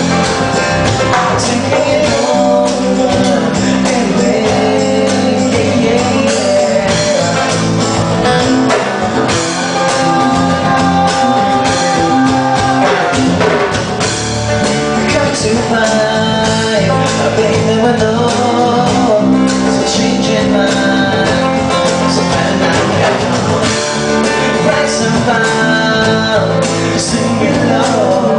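Live rock band playing an instrumental stretch of a song: guitars, bass and drums with a gliding lead melody line.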